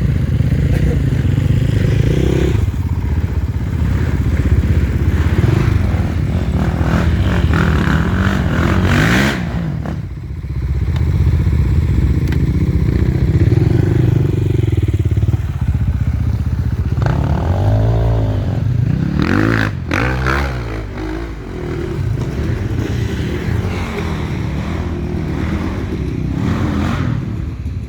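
Enduro motorcycle engine running and being revved up and down as the bike is ridden, its pitch rising and falling repeatedly, with quick rev sweeps and a drop in level about ten seconds in.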